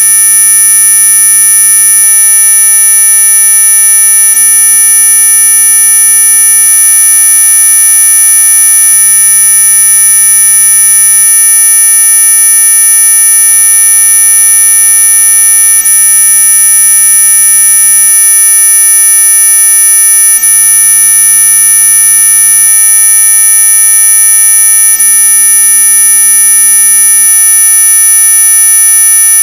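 Synthesized mosquito-repellent tone: a loud, steady, high-pitched electronic whine made of several pure tones sounding together, unchanging throughout.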